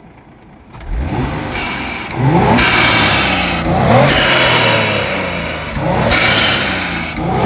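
Mitsubishi Galant VR-4 / Legnum 6A13TT twin-turbo V6 revving hard. The engine sound starts suddenly just under a second in, then comes in repeated pulls, each rising in pitch before breaking off briefly, about four times.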